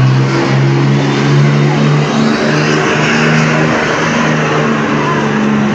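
A pulling truck's engine running hard under load, loud and held at a roughly steady pitch, with a heavy rush of exhaust noise over it.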